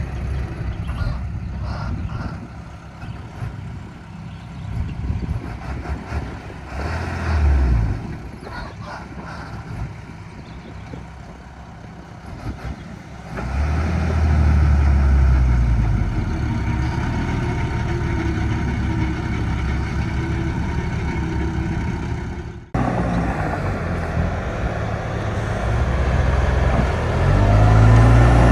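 Heavy diesel engine of a working machine running. It is lower for the first dozen seconds, picks up sharply under load at about 13 seconds in, cuts out for an instant near 23 seconds, then rises again near the end.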